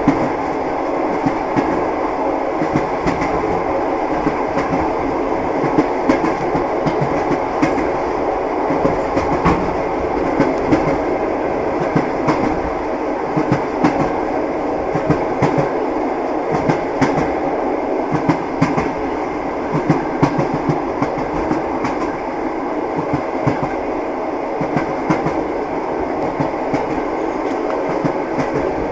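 Train wheels clacking over the rail joints, heard from inside a moving railway carriage: a steady rumble with a run of sharp clicks throughout.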